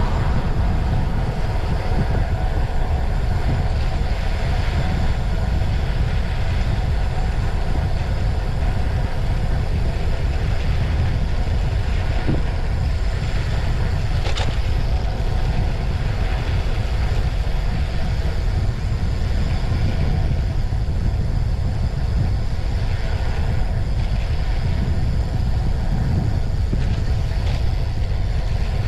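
Wind buffeting the microphone of a GoPro action camera on a moving road bicycle: a steady, loud low rumble.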